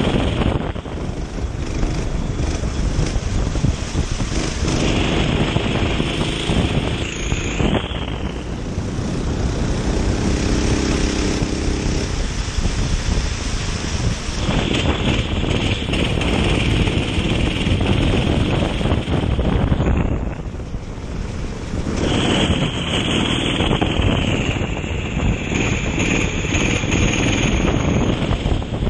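Kart engine running hard and easing off in the turns, its note dropping away twice, about eight seconds in and again around twenty seconds. Wind buffets the microphone throughout.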